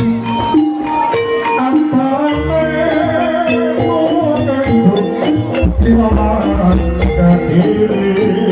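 Traditional East Javanese jaranan (kuda lumping) ensemble music played live, with drums and pitched traditional instruments carrying a melody. Deep low notes come in twice, about two seconds in and again near six seconds.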